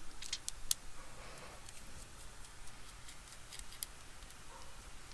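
Scattered small, sharp clicks and ticks of a laptop being taken apart, as tools and small parts touch its chassis and board: a quick cluster in the first second, then two more later on.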